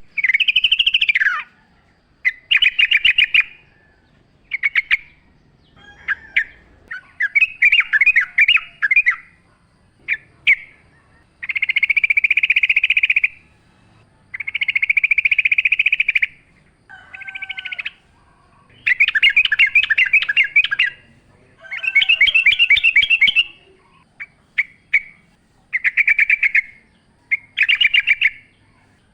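Yellow-vented bulbul singing: a series of chattering phrases, each a second or two of rapid bubbly notes, with short pauses between them.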